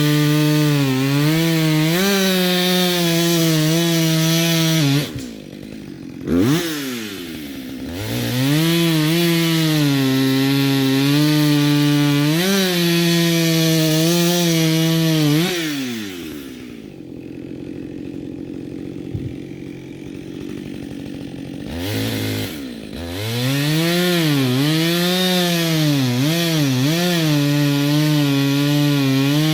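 Two-stroke chainsaw cutting firewood at full revs, its engine note wavering as the chain bites. About five seconds in it drops back to idle with a short blip. It revs up again for a second cut, idles for several seconds in the middle, then runs back up to full revs for another cut.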